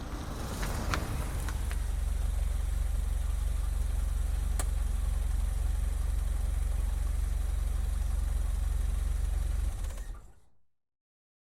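Vauxhall Carlton engine idling with a steady low rumble, with a few light clicks near the start and one about halfway through. The sound dies away about ten seconds in.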